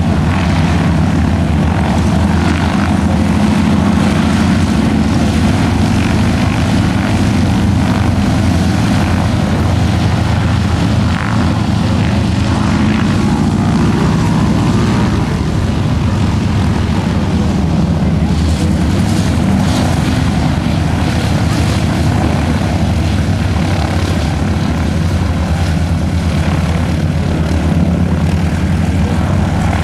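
F4U Corsair's Pratt & Whitney R-2800 radial engine and propeller running steadily at an even, unchanging level.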